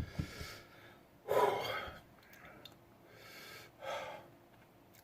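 A man gasping and breathing hard through his mouth, with one loud breath about a second and a half in and fainter ones later. He is reacting to the burn of a superhot chili pepper he has just eaten.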